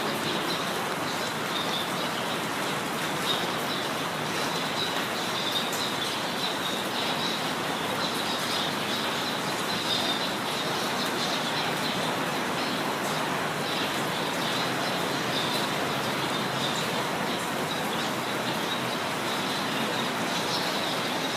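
Steady rain falling, with small birds chirping and twittering over it.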